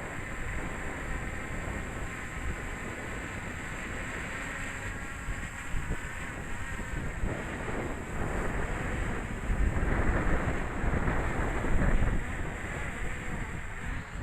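Strong gusty wind buffeting the microphone, a deep rumbling noise that swells louder about two-thirds of the way through.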